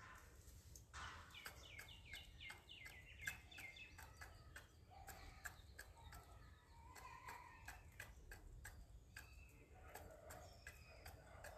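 Birds chirping in quick series of short falling calls, mostly in the first few seconds, over many sharp irregular ticks typical of beaks pecking grain from a hard surface as peafowl feed.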